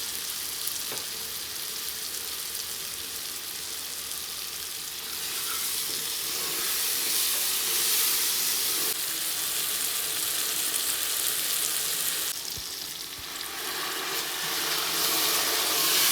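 Tomato and spice masala sizzling steadily in hot oil in a pan as it is stirred, growing louder about a third of the way in and again near the end while it cooks down.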